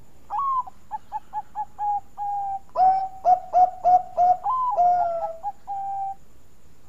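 Bangkok-type zebra dove (perkutut) singing: a rising opening coo, then a quick run of short coos, then louder clipped coos and a final long held note.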